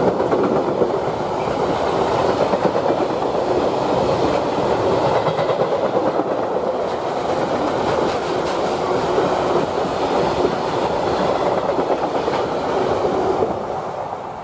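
Freight train of open high-sided wagons rolling past, its wheels making a steady rumble and clatter on the rails. The sound fades near the end as the last wagon goes by.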